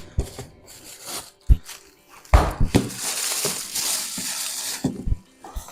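Garlic cloves being crushed: a few sharp knocks, then about two and a half seconds of crushing noise from about two seconds in, and a couple more knocks near the end.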